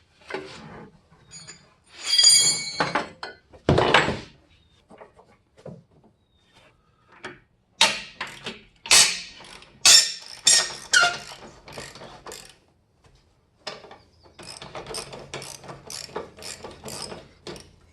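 Ratchet wrench clicking as a bolt is worked loose, among metal clanks and knocks, with a heavy thunk about four seconds in. Near the end comes a steady run of ratchet strokes, about three or four a second.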